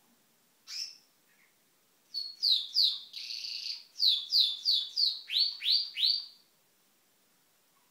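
Pet bird calling: one short high call, then after a pause a run of repeated high chirps, about three a second, broken by a short buzzy note. The run ends with three upward-sweeping notes.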